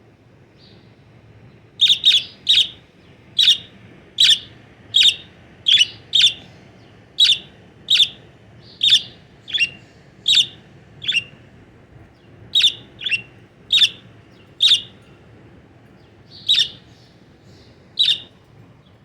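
Pet bird giving loud, sharp, short calls, each falling quickly in pitch, about once a second and sometimes in quick pairs, starting about two seconds in: distance contact calling aimed at wild birds.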